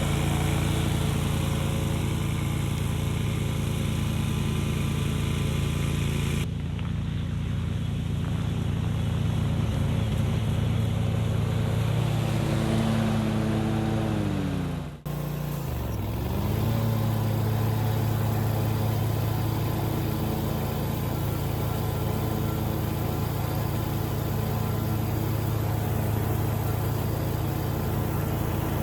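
Bad Boy Rogue zero-turn mower's 1,000cc Kawasaki V-twin engine running steadily at speed while mowing long pasture grass. About halfway through, the engine note falls sharply and nearly dies away for a moment, then climbs back up to its steady running pitch.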